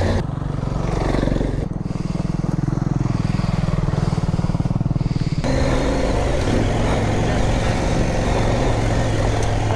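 Motorcycle engine running while riding, with a steady engine note that changes abruptly about halfway through.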